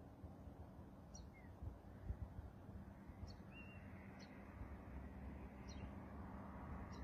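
Faint bird chirps: short, high, falling notes about once a second, with one lower note in the middle, over a steady low rumble.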